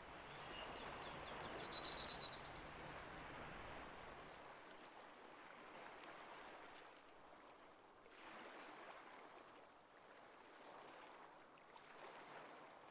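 A songbird sings one fast series of notes climbing steadily in pitch, lasting about two seconds, over a faint steady high insect drone.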